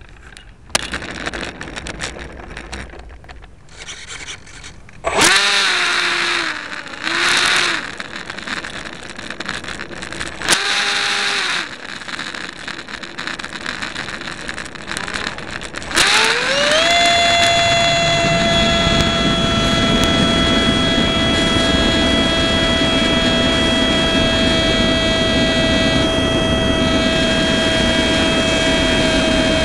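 70 mm electric ducted fan of a Starmax F-16 model jet, heard close from an onboard camera. A few clicks come first, then three short throttle blips. About 16 seconds in, the fan spools up with a rising whine and holds a steady high whine.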